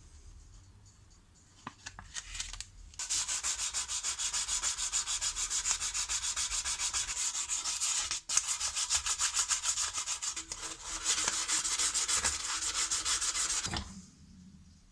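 Old metal spanner being sanded by hand: fast, even back-and-forth rubbing strokes, with a brief pause about halfway, after a few light knocks as it is handled.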